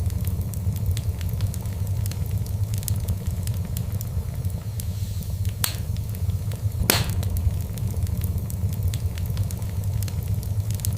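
Fireplace fire crackling over a steady low rumble, with many small snaps and two louder pops about six and seven seconds in.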